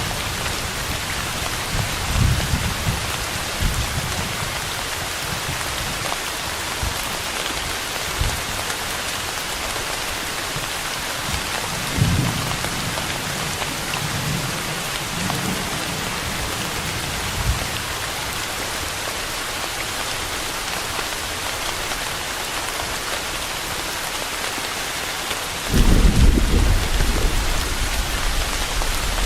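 Steady heavy rain hiss with thunder: a few short, low rumbles through the first part, then a louder, longer roll of thunder near the end.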